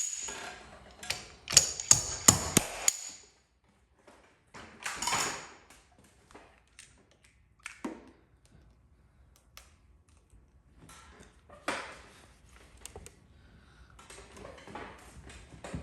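Glue-pull paintless dent repair tools at work on a body panel: a quick run of sharp, ringing snaps and clicks in the first three seconds, then a short rushing burst and scattered lighter clicks and taps.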